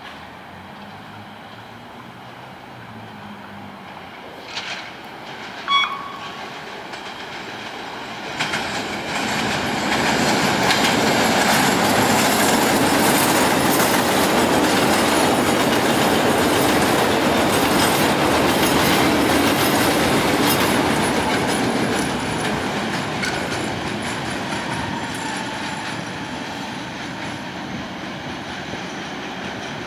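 CTA 5000-series elevated rapid-transit train passing close on the steel structure. Its wheel-and-rail noise builds from about eight seconds in into a loud, steady run with rapid clickety-clack over the rail joints, holds for about twelve seconds, then slowly fades. Two sharp knocks come a few seconds before it builds, the second with a brief ringing tone.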